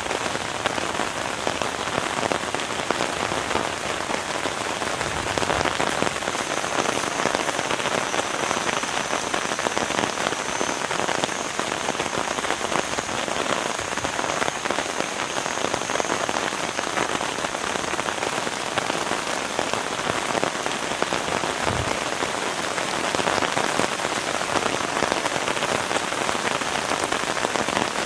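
Heavy rain falling steadily, a dense even hiss of countless drop hits on a surface.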